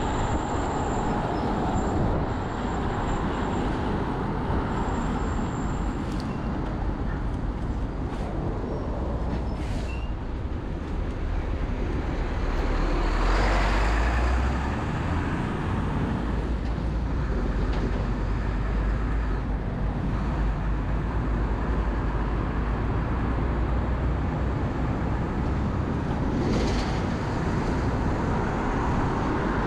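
Wind rushing over the microphone and traffic noise on a busy road while riding an electric bike at speed, with a steady low rumble. The noise swells briefly about 13 seconds in.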